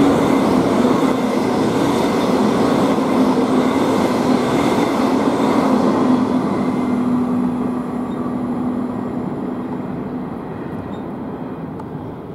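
Electric suburban train running past close by and pulling away: rail and running noise with a steady low hum, fading over the last few seconds.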